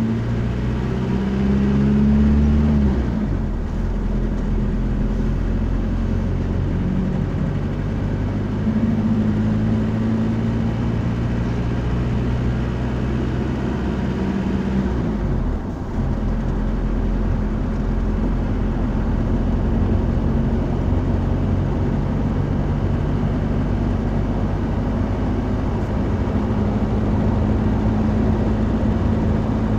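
A car driving: a steady engine hum and road noise. The engine note shifts a few times, with a brief dip about fifteen seconds in.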